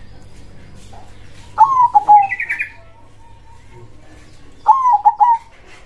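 Zebra dove (perkutut) cooing: two loud phrases of its stuttering, warbled song about three seconds apart. A brief high twittering follows the first phrase.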